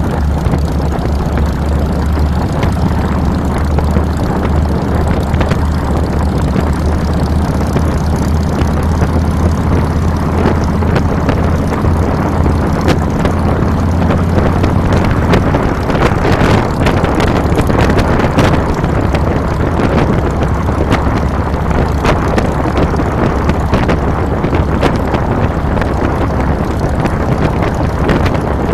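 Harley-Davidson Fat Boy's Twin Cam 96 V-twin engine running under way, heard from the handlebars, with wind buffeting the microphone. Its low steady note shifts about halfway through.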